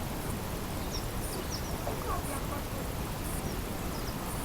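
A few short, faint bird chirps over a steady low rumble of outdoor background noise.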